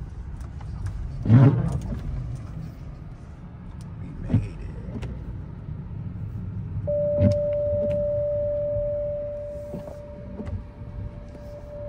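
Two dull thumps over a low rumble, then a single steady electronic-sounding tone comes on about seven seconds in and keeps going.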